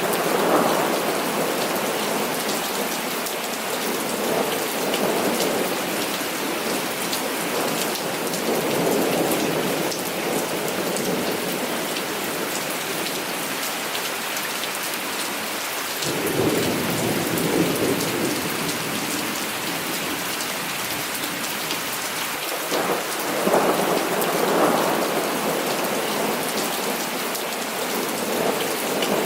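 Heavy rain falling steadily, with repeated low rolls of thunder; the deepest rumble comes about halfway through and another swells near the end.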